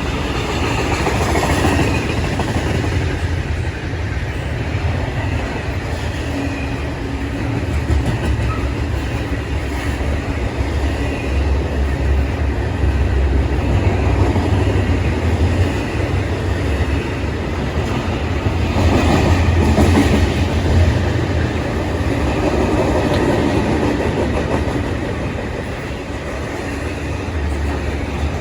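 A train rolling past at close range: a steady, loud rumble of railroad cars with wheels clattering over rail joints.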